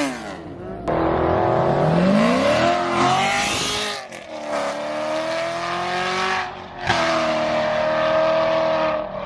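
A car engine under hard acceleration, its pitch climbing steeply, then dropping sharply about four seconds in before rising again. A second sharp drop comes near seven seconds, and the engine then holds a steady high pitch.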